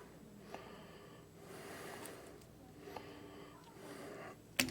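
Quiet hand-work noises: soft breathing with a few faint ticks, and one sharp click near the end.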